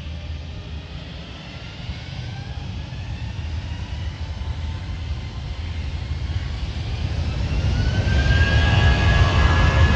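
Airbus A320-200 jet engines spooling up for takeoff: a low rumble with a whine that rises in pitch and grows steadily louder, loudest near the end.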